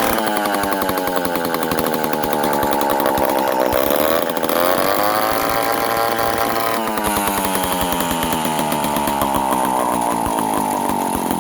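Vintage 1950s Sears David Bradley chainsaw, built by Strunk, its two-stroke engine running loud and fast without a break. Its pitch sags briefly about four seconds in and climbs straight back up.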